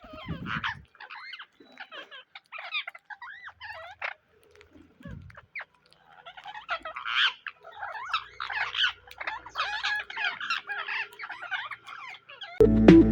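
Indian ringneck parrots chirping and chattering in short, bending calls, busier and louder from about halfway through. Music starts just before the end.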